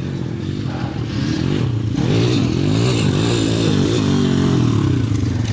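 Dirt bike engine running and revving, its pitch rising and falling several times in the middle over a steady low engine note.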